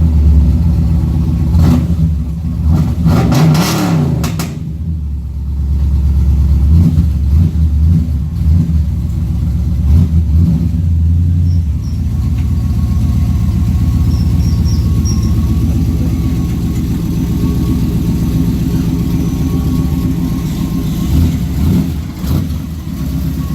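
1997 Pontiac Firebird WS6's LT1 V8 on a cold start. It runs loud and uneven with a few surges in the first few seconds, then settles into a steady idle.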